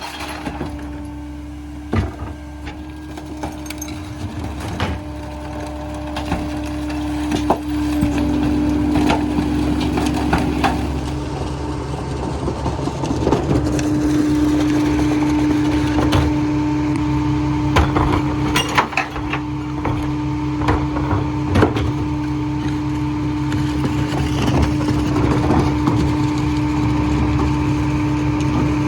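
Mini rear-loader garbage truck running, with a steady hydraulic whine over the engine. Repeated knocks and cracking of recycling being dumped and packed.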